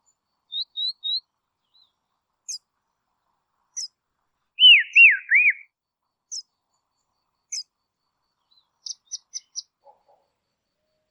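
Songbird calling: a quick run of three short high notes, a few sharp high ticks, then a loud phrase of three looping whistled notes that dip and rise about halfway through, and four quick high notes near the end.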